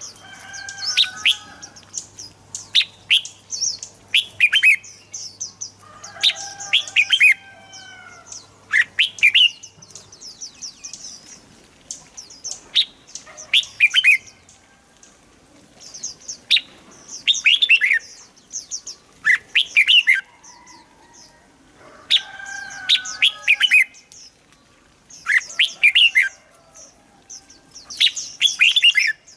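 Red-whiskered bulbul singing: short bursts of quick, bubbling whistled notes every two to three seconds, with softer high chattering between the phrases.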